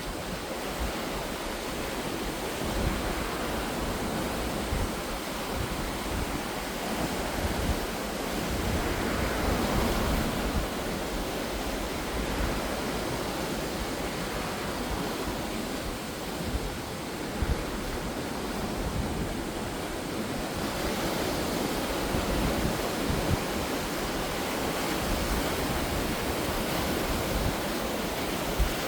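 Ocean waves breaking and washing on the shore, a steady rush of surf that swells and eases, with one larger surge about a third of the way through.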